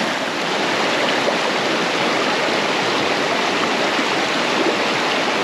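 Mountain stream rushing over rocks, a steady loud water noise with no break.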